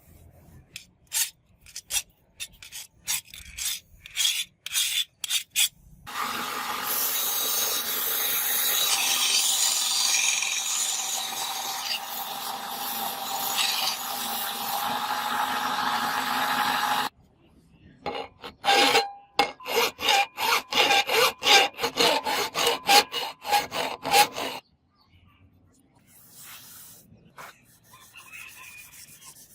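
Forged steel being worked by hand with a file or sandpaper in quick back-and-forth rasping strokes, about two to three a second. In the middle there is a long stretch of unbroken scraping, about eleven seconds, before the separate strokes start again.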